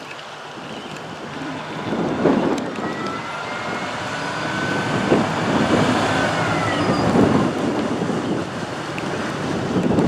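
GE 80-ton center-cab diesel switcher moving slowly, its wheels giving a long thin squeal that slides down in pitch near the end. Heavy wind buffets the microphone throughout.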